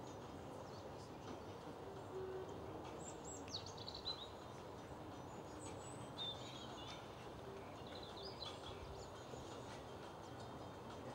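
Faint outdoor background noise with small birds chirping a few times, short high chirps that fall in pitch.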